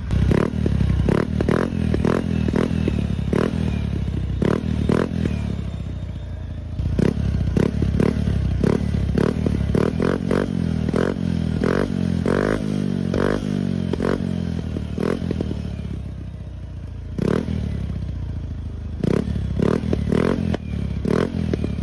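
Keeway Icon 110 scooter engine running through an aftermarket Apido V4 muffler, blipped with short throttle revs over and over, with a brief settle to idle partway through. The exhaust note is crisp.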